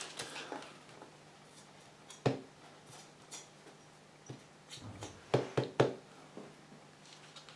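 Light handling noises on a workbench as a plastic white-glue bottle is picked up and readied: one sharp click about two seconds in and a quick run of small clicks and taps a little past halfway, over a faint steady hum.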